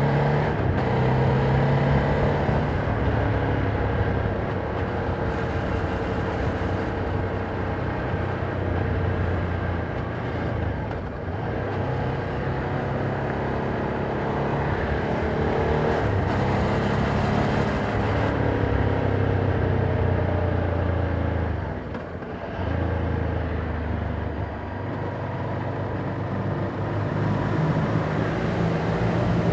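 Ducati Monster 797's air-cooled V-twin running through its stock exhaust while riding, engine speed rising and falling with throttle and gear changes, with a brief drop in loudness about three quarters of the way through as the throttle is closed.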